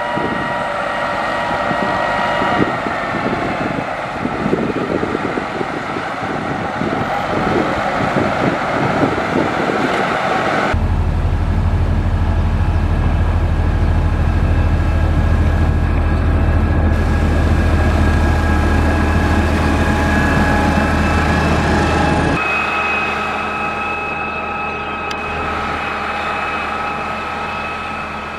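Heavy road-building machinery running steadily, its engine a sustained drone with a whine over it. The sound changes abruptly twice, about a third and about three-quarters of the way through, and the middle stretch has a much stronger low drone.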